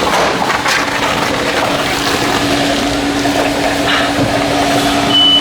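Self-serve car wash bay equipment running with a steady rushing noise and a low hum, a few faint knocks from the foam brush and hose. Near the end the coin box's high, steady warning tone starts, signalling that only a minute of paid time is left.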